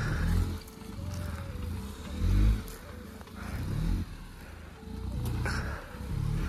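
Small Maruti Suzuki hatchback's engine revving in surges as the car struggles on a rough off-road track, its tyres spinning. The loudest rev comes about two seconds in.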